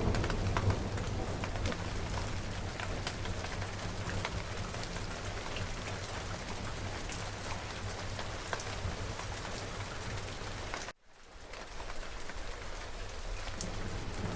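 Steady rain with many distinct drops pattering, the low rumble of a thunderclap dying away in the first couple of seconds. About eleven seconds in the sound cuts out abruptly for a moment and fades back in.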